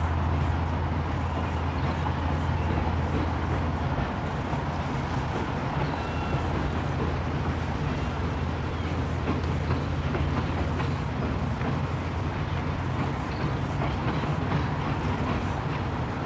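Freight train of loaded log wagons rolling across a rail bridge: a steady low rumble of wheels on rail.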